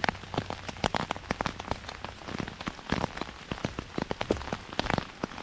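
Heavy rain falling, with many loud individual drops striking close to the microphone as sharp, irregular clicks over a steady hiss.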